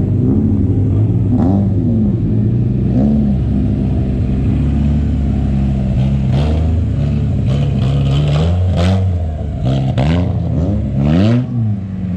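Several race car engines running loud on a dirt oval, their pitch repeatedly sweeping up and down as the cars rev and pass, about seven times.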